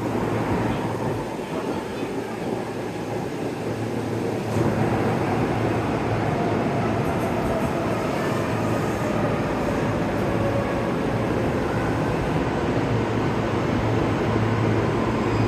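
JR East E531-series electric train pulling into the station: steady running noise of wheels and motors that grows louder about four and a half seconds in, with a faint whine slowly falling in pitch as it slows.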